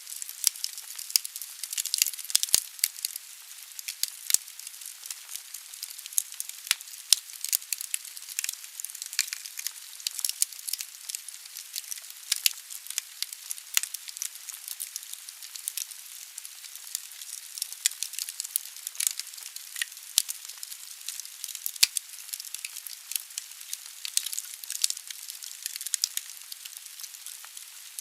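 Firewood burning in a fireplace: dense, irregular crackling and snapping over a steady hiss of the fire, with a few louder pops.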